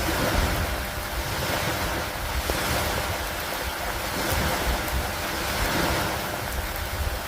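Stormy lakeside ambience: steady rain with wind and lake water, a dense hiss that swells and eases every second or two over a low rumble of wind on the microphone.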